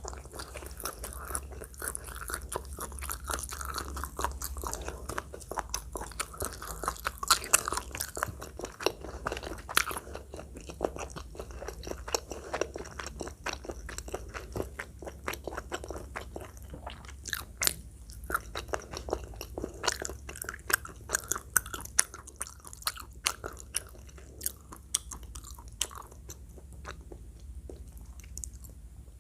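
Close-miked eating: a person chewing and biting food with many irregular clicks and smacks, louder in bursts, over a steady low hum.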